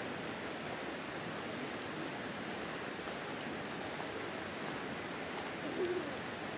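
Wood campfire burning, with faint scattered crackles and pops over a steady rushing background noise. A brief low sound comes near the end.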